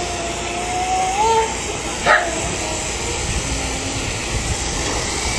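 A dog whining: one long high whine that rises at its end, then a short yelp about two seconds in, over a steady hiss.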